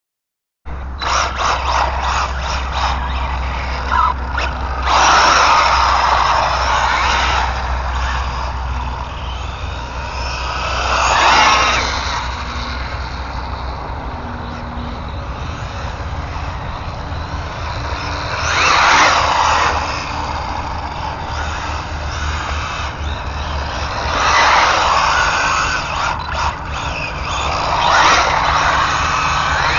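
ARRMA Infraction 3S brushless RC car being driven hard, getting louder as it runs close by about five times. A steady low rumble lies underneath.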